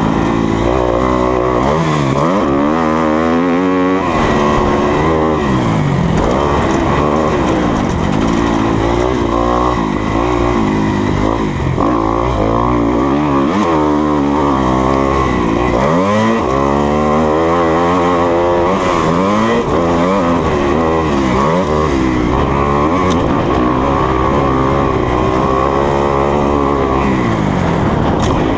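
2020 Kawasaki KX250F's single-cylinder four-stroke engine revving hard and easing off again and again as the bike is ridden round a motocross track, its pitch rising and falling every couple of seconds with throttle and gear changes.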